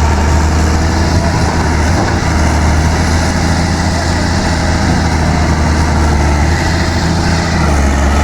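Backhoe loader's diesel engine running steadily at idle, a loud low drone.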